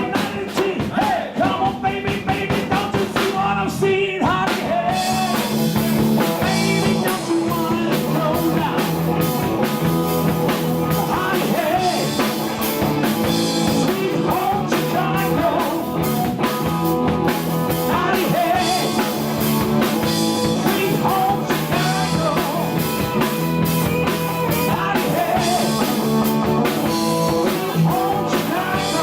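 Live blues-rock band playing with a drum kit and electric guitar. Bending guitar or vocal lines run over a steady beat, and the cymbals get busier about five seconds in.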